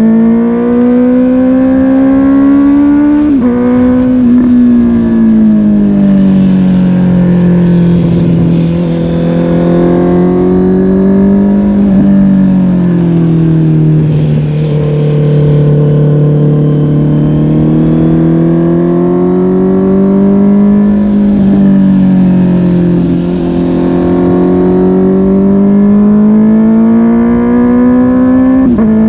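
Honda CB650R's inline-four engine through a MIVV GP PRO Carbon aftermarket exhaust, pulling under load. The note rises and falls as the rider accelerates and eases off, with a sharp drop in pitch at an upshift about three seconds in and another at the very end.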